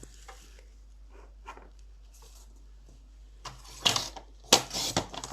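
Paper being cut for a card. Faint handling noises come first, then a few short, loud cutting strokes from about three and a half seconds in.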